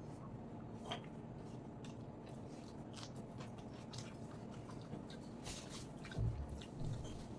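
Close-up chewing and wet mouth sounds of someone eating rice with fried red amaranth greens, with scattered small clicks. Two short dull thumps come a little after six seconds in.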